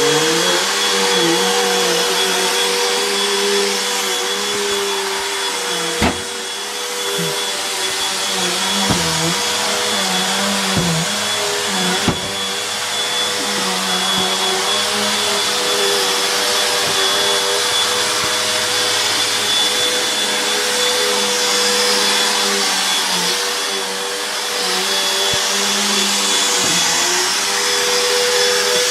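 Vacuum cleaner running loudly and steadily: a high whine over the motor's hum, with the lower note wavering as the load changes. A couple of sharp knocks cut through, about six and twelve seconds in.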